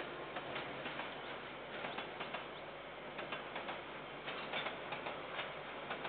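Freight train of container wagons passing, its wheels clicking and clattering irregularly over the rails, several sharp ticks a second over a steady rumble, heard through a security camera's microphone.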